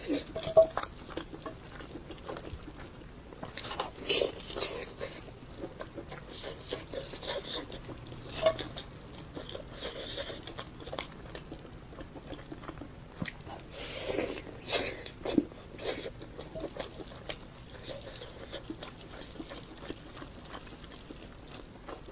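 A person chewing and biting food close to the microphone: irregular wet mouth clicks and crunches, with a denser run of bites about two-thirds of the way through.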